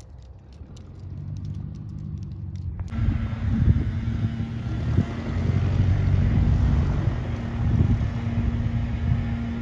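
Piston engine of a light single-engine airplane running with a steady pitch and growing louder. About three seconds in there is a sudden jump in loudness with added rushing noise.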